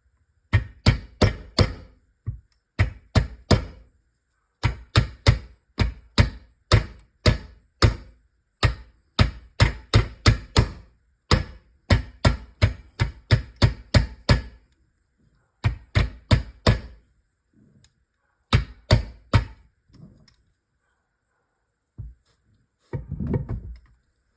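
Hammer tapping on a part during a transmission rebuild, sharp blows in quick runs of three to seven at about four a second with short pauses between runs. A brief rattling scrape comes near the end.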